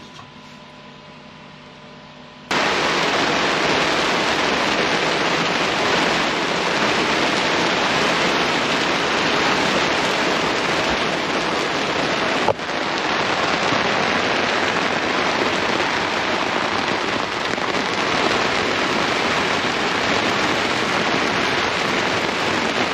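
Heavy rain falling, a dense, steady hiss that starts suddenly about two and a half seconds in after a quieter opening. A single sharp click sounds about halfway through.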